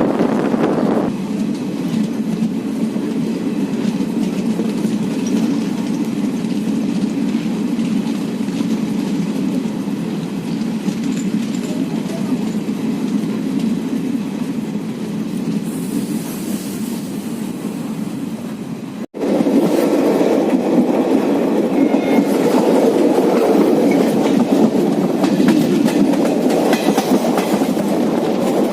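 Passenger train running along the track, heard from on board: a steady rumble of wheels on rails with a light clickety-clack. It cuts out for an instant about two-thirds of the way through and comes back louder.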